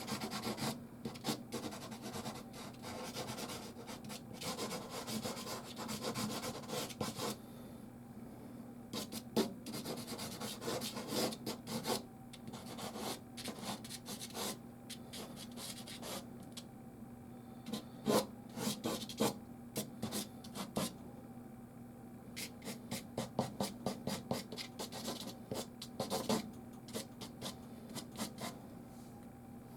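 Soft pastel rubbing and scraping on canvas. The first seven seconds or so are a dense run of strokes; after that come separate short strokes with brief pauses between them. A faint steady low hum runs underneath.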